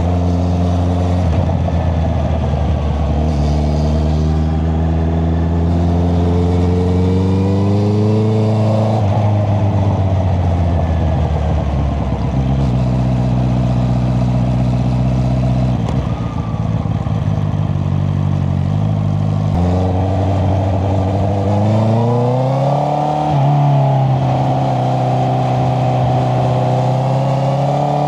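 Honda CBR650R's inline-four engine through an Akrapovic exhaust run without its dB killer, heard from the bike under way. It climbs in revs, drops sharply at gear changes several times, and holds steady between them while cruising.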